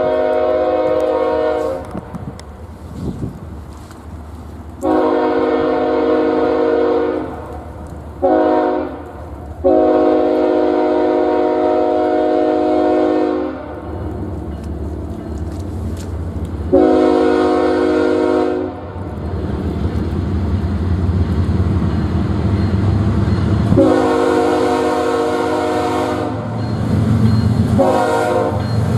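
Locomotive air horn with several chimes sounding together, blowing the grade-crossing pattern of long, long, short, long, then further long blasts. A low train rumble grows steadily louder under it through the second half as the train draws near.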